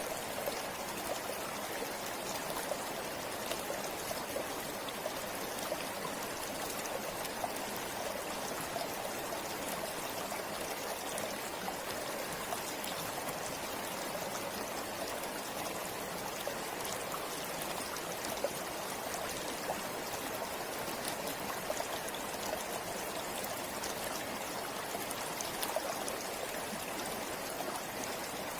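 River flowing steadily: a continuous rush of moving water with many small splashes and droplets scattered through it.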